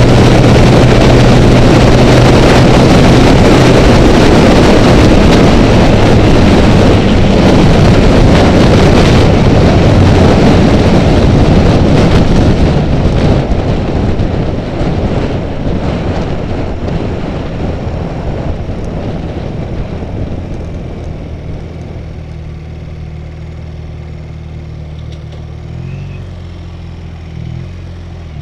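Honda Rebel motorcycle running at speed with loud wind rush on the microphone. About halfway through it slows: the wind noise fades, leaving the engine running steadily at low speed, with a couple of short revs near the end.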